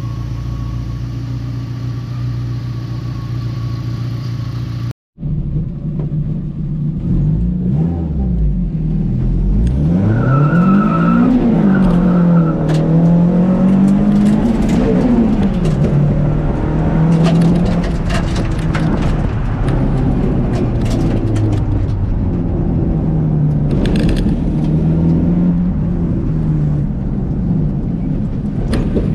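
Renault Clio Sport's 2.0-litre four-cylinder engine heard from inside the stripped cabin while driving, its revs rising and falling again and again, with scattered sharp clicks. Before a brief dropout about five seconds in, a steadier sound runs underneath.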